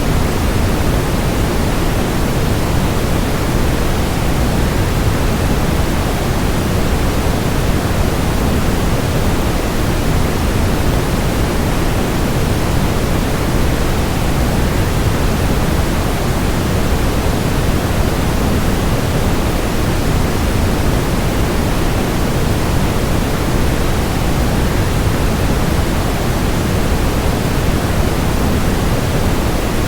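Waterfall noise: a loud, unbroken rushing of falling water, deep and even, with no changes or separate splashes.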